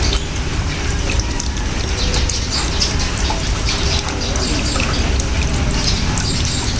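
Steady rain with scattered drops pattering, over a low rumble, and birds calling faintly.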